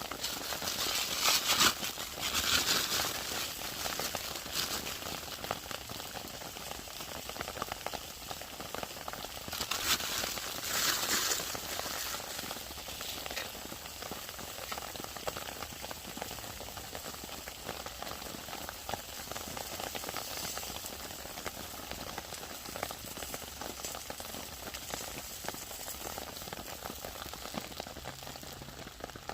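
Burger patties sizzling as they fry on a small wood-burning camp stove, a steady crackling hiss that swells louder twice, near the start and about ten seconds in.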